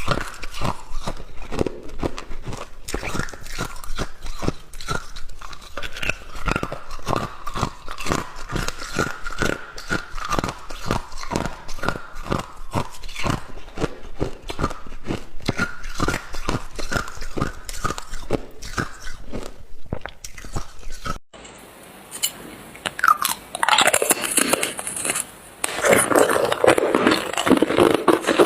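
Hard, clear ice being bitten and chewed close to the microphone: rapid, dense crunching that goes on for most of the stretch. After an abrupt cut, a different rustling, crackling noise follows near the end.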